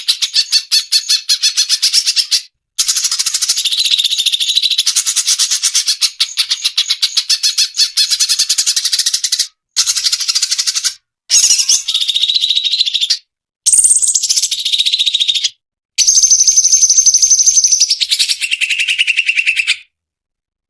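Cucak cungkok song: fast, dense chattering trills, rapid and high-pitched, delivered in several bursts separated by short breaks, with some phrases holding a steadier whistled pitch near the end.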